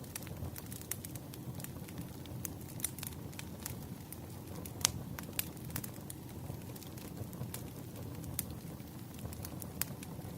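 Wood fire crackling: irregular sharp pops, one louder about five seconds in, over a steady low rumble.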